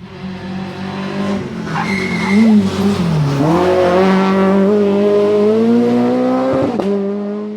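Rally car engine at high revs with tyres squealing. The revs fall about three seconds in, then climb steadily under acceleration and drop sharply at a gear change near the end.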